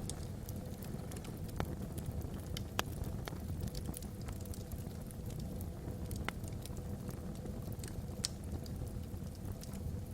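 Wood logs burning in a fireplace: a steady low rumble with frequent crackles and pops, the sharpest about three seconds in and again about eight seconds in.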